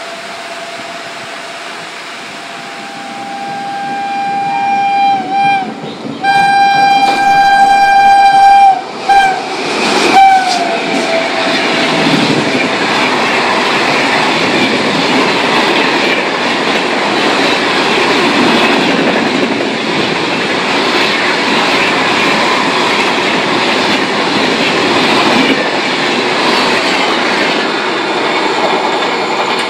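Indian Railways train horn sounding several long blasts, each dipping in pitch as it cuts off. After the horn, a passenger train passes at high speed with a loud, steady rush and the clatter of coach wheels over the rails, beginning to fade near the end.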